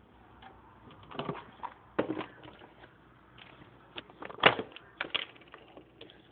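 A few scattered knocks and clicks of things being handled, the sharpest and loudest about four and a half seconds in, as crackers are fetched for a parrot.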